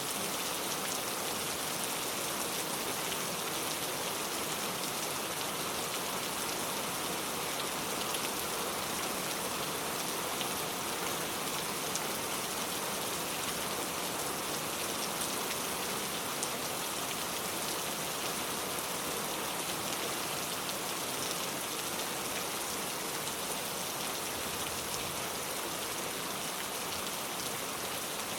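Steady rain falling on a car, with fine drops ticking on the bodywork over an even hiss of rainfall.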